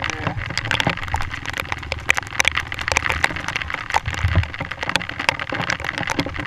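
Heavy rain, with drops striking the action camera in quick, irregular sharp ticks, over the low steady rumble of a dirt bike engine.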